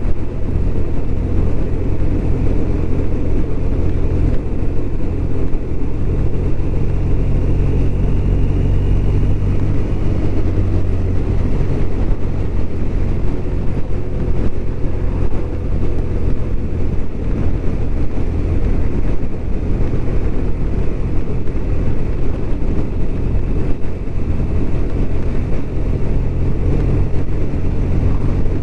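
BMW R1200RT flat-twin motorcycle running steadily under way, with road and wind noise mixed in.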